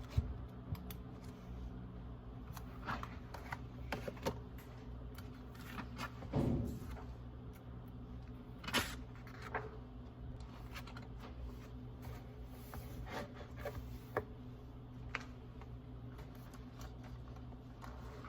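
Crackling campfire: a steady low rumble with irregular snaps and pops, the sharpest crack about nine seconds in.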